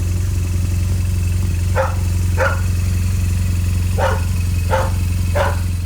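A dog barks five times, in short separate barks, over a steady low engine hum.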